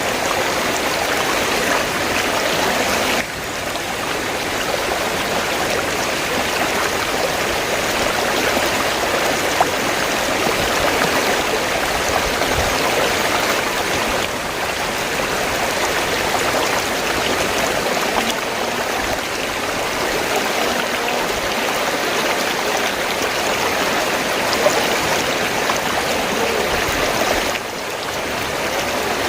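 River water flowing steadily over rocks, with an even rushing and babbling. The level dips briefly twice, a few seconds in and near the end.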